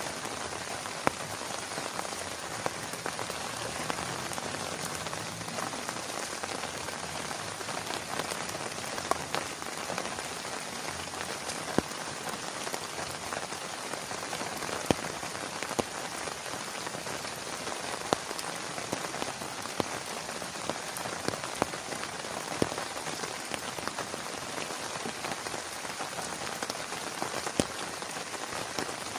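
Steady rain falling, with scattered louder single drops hitting close by, one every second or two.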